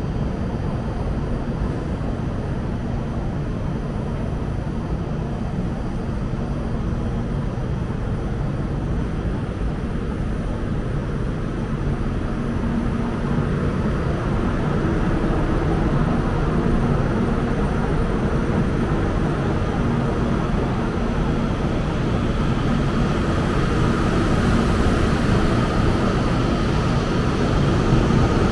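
THSR 700T high-speed train pulling away from the platform: a steady rumble and hiss that slowly grows louder, with a whine coming in near the end as it gathers speed.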